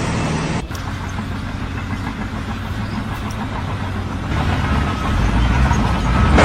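A motor vehicle or machine engine running, with the low rumble growing heavier about four seconds in.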